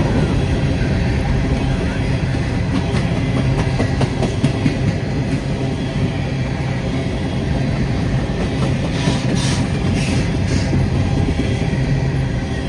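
Freight train of empty grain cars rolling past, a steady rumble of wheels on rail with scattered clicks. A few short high-pitched sounds from the wheels come about nine and ten seconds in.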